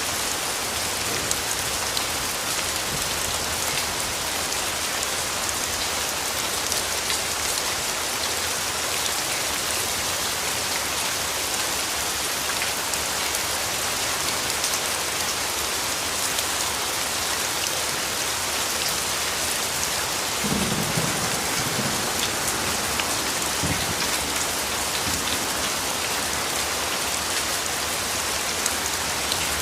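Steady rain falling, a dense even hiss with individual drops ticking through it. About twenty seconds in, a low rumble of distant thunder rolls for a few seconds.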